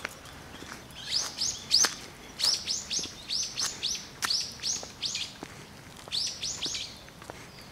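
A bird calling: runs of short, high chirps, several a second, starting about a second in and stopping shortly before the end.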